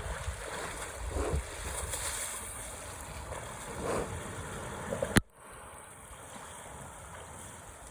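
River current rushing steadily, with wind buffeting the microphone in low rumbles for the first five seconds. A single sharp click comes about five seconds in, after which only the quieter, even river hiss remains.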